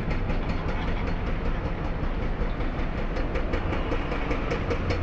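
Hydraulic breaker on an excavator hammering concrete in rapid, evenly spaced blows, about four a second, over the steady hum of the machine's diesel engine. The hammering sounds like it is working through pretty solid ground.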